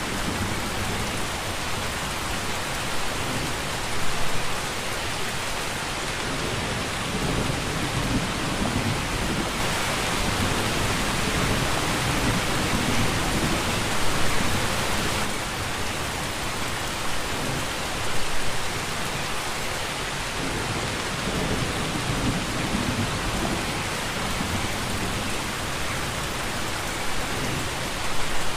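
Steady rain with a low rumble of thunder underneath. The rain grows louder for about five seconds near the middle, and there are a few brief louder surges.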